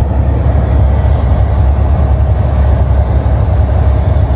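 Semi truck's diesel engine running steadily under load on a mountain climb, a deep, even drone heard from inside the cab.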